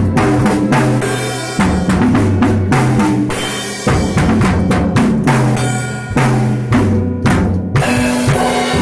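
A live band rehearsing: a drum kit beating steadily with kick and snare under held bass and chord notes.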